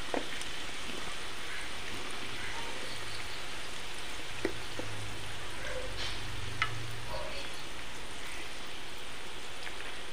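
Marinated chicken pieces and green chillies frying in hot coconut oil in a pan: a steady sizzle with a few sharp pops.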